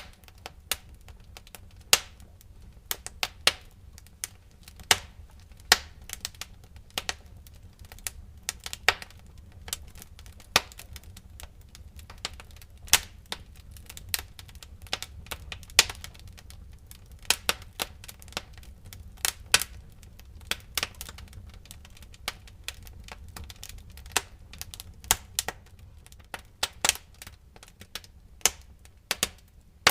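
Wood fire in a fireplace crackling, with irregular sharp pops and snaps of varying loudness over a low steady rumble of the flames.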